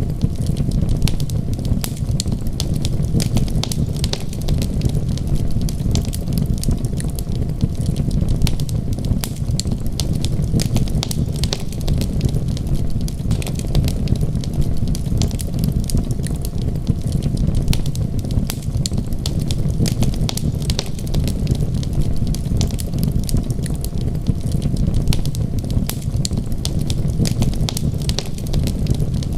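Wood fire crackling with a dense, irregular stream of small pops and snaps, over a steady low rumble.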